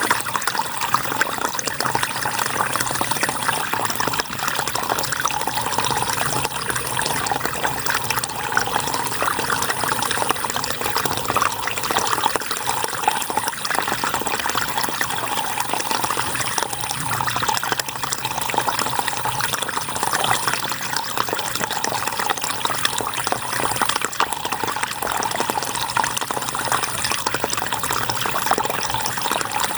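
River water flowing steadily over and around rocks, an even rushing splash with no breaks.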